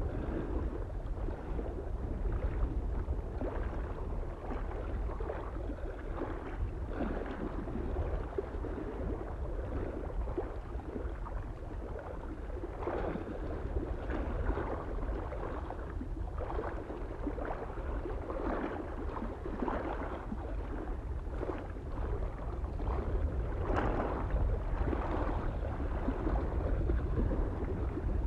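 Small lake waves lapping and splashing irregularly against the shore, over a steady low rumble of wind.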